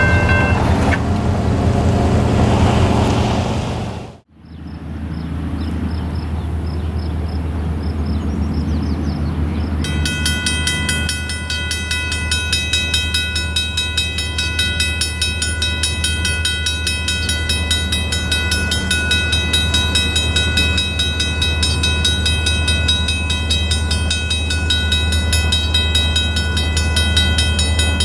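A train rumbling at a grade crossing. About ten seconds in, a railroad crossing bell starts ringing in fast, even strokes and keeps ringing over the low rumble.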